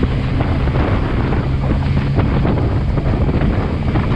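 Motorcycle engine running steadily at cruising speed, under heavy wind rush across the microphone.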